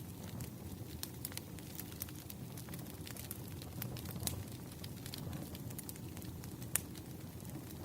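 Wood fire crackling: a steady low rumble of burning logs with frequent irregular snaps and pops, one sharper pop near the end.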